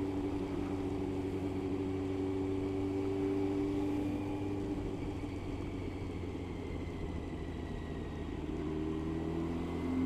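Motorcycle engine running at a steady cruising speed under a constant rush of wind and road noise. The engine note fades about halfway through and comes back near the end.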